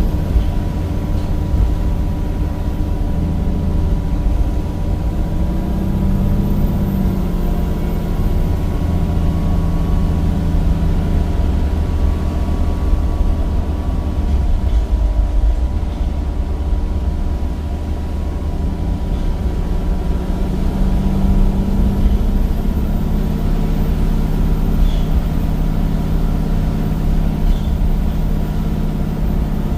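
Cummins diesel engine of a Temsa Avenue bus with a ZF gearbox, running under way. The revs rise, ease off and go quieter in the middle, then build again and hold near the end.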